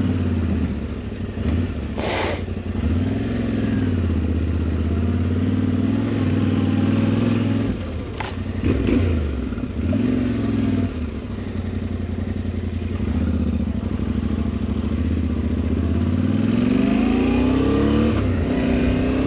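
Yamaha Ténéré 700's parallel-twin engine revving up and down in repeated surges as the motorcycle fights for grip on slippery wet clay and grass, with a sharp clatter about two seconds in and another about eight seconds in. Near the end the engine note climbs steadily as the bike pulls away.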